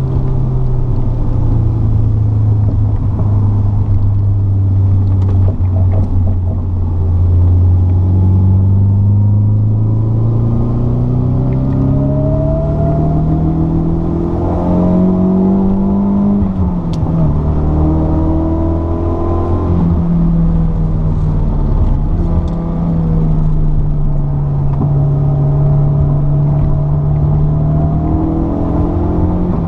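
A car's engine heard from inside the cabin under hard track driving. The revs climb, drop sharply at a gear change about two-thirds of the way through, then climb again, over steady road and tyre noise.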